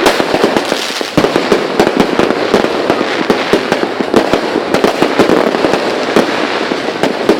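Many fireworks and firecrackers going off at once in a dense, continuous barrage of bangs and crackling pops, several each second.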